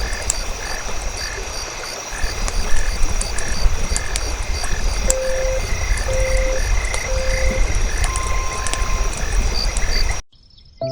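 Frogs croaking in a steady rhythmic chorus over a crackling campfire. About five seconds in, a timer sounds three short beeps a second apart and then one longer, higher beep, marking the end of a focus period, and the ambience cuts off just before the end.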